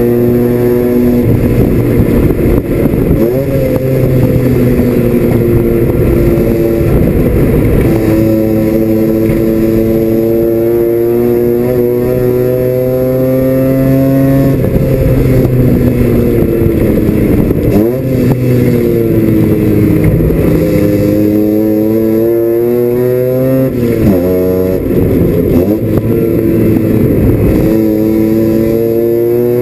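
Mazda RX-7 FC's 13B twin-rotor engine at racing speed, heard from inside the cockpit: revs climb steadily through long pulls, with several quick drops and climbs in the second half as the driver shifts and brakes.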